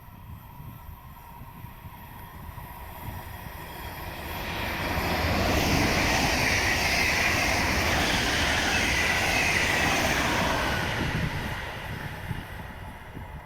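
A train passing by on the line. Its rush of wheels on rails builds about four seconds in, stays loud for several seconds, then fades away near the end.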